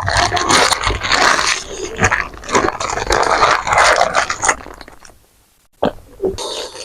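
Close-miked eating of fried fast food: loud, wet crunching and chewing. It dies away about five seconds in, then a few smaller mouth clicks and crunches follow near the end.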